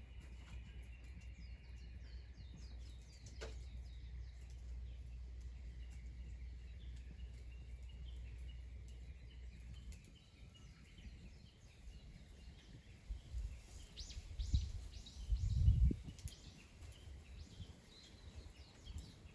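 Birds calling in runs of short chirps over a low steady rumble that stops about halfway through. Near the end come a few dull low thumps, the loudest sounds.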